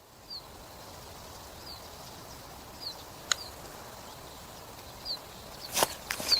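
A bird repeating a short, high, falling chirp about every one to two seconds over a steady outdoor background. There is a single sharp click about three seconds in, and footsteps begin near the end.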